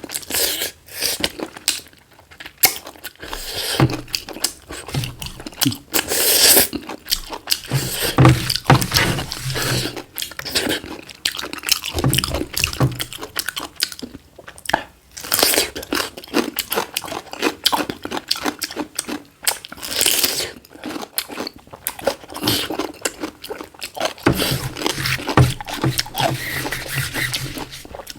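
Close-up chewing and crunching of black chicken, many quick crunchy bites and chews one after another.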